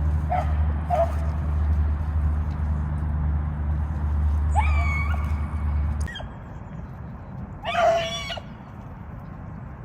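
Beagles baying while trailing a rabbit: two short yips near the start, then two longer calls, the louder one near the end. Under them runs a steady low rumble that cuts off about six seconds in.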